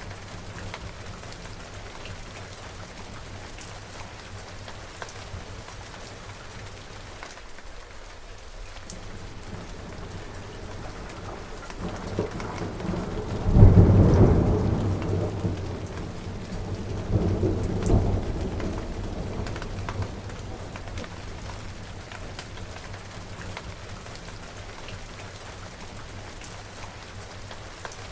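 Steady rain falling, with a clap of thunder about halfway through that breaks in suddenly and rumbles down, swelling again once before it fades.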